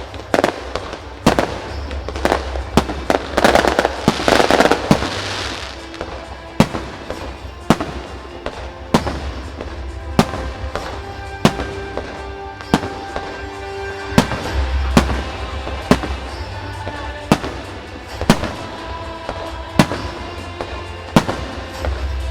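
Aerial fireworks shells bursting one after another, with a dense stretch of crackling about three to five seconds in. Music plays along with the bursts.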